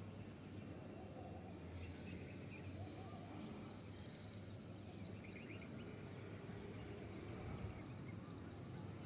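Faint outdoor background noise with scattered distant bird chirps and a brief high trill about four seconds in.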